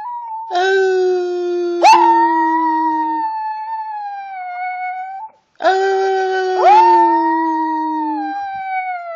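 Chihuahua howling in long, drawn-out, wavering howls. A second, lower steady howl joins twice, about half a second in and again a little past halfway, and each time it is followed by a sharp upward swoop in pitch.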